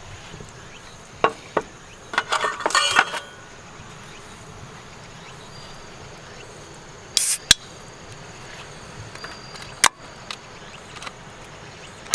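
Steady chirping of night insects, with scattered clicks and clinks of dishes and utensils, a short clatter about two to three seconds in, and a brief sharp hiss about seven seconds in.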